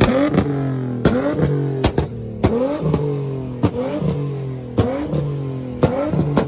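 A car engine revved in a quick series of short blips, each one rising sharply in pitch and then falling back, about once a second.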